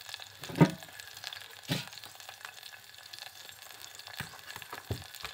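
Green chillies and onion frying in hot oil in an aluminium pot, a soft steady sizzle and crackle. A few knocks sound over it, the loudest about half a second in and another near two seconds.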